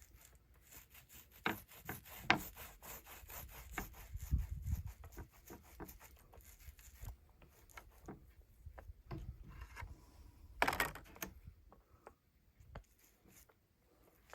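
Repeated hand rubbing strokes on a drum shell, quick and even for the first half, then sparser and quieter, with one louder, longer scrape about eleven seconds in.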